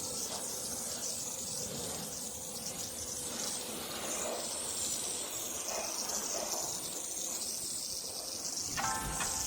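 Steady high-pitched hiss of water spraying, with music coming in near the end.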